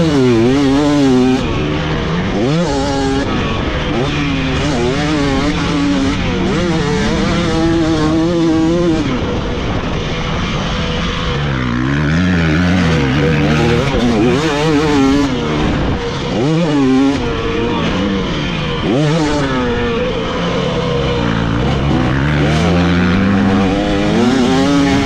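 Dirt bike engine being ridden hard around a motocross track, its pitch climbing and dropping again and again as it revs out, shifts and rolls off for corners and jumps.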